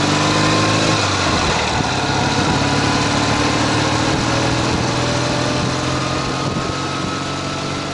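Ural sidecar motorcycle's flat-twin engine running under way, its pitch rising slowly as it pulls, over a steady rushing noise.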